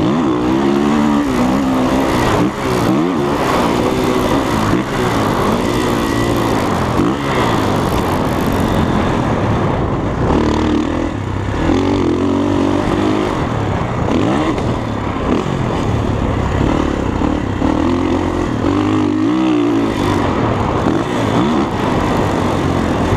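Dirt bike engine revving up and falling back over and over, its pitch climbing and dropping every second or two as the rider opens and closes the throttle.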